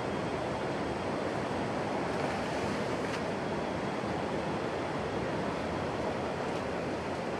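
Steady, even rushing noise with no distinct events, of the kind made by moving water or wind.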